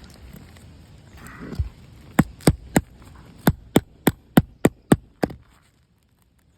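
A pry bar being worked under an asphalt roof shingle to reach its nails: a brief scrape, then about ten sharp knocks, around three a second.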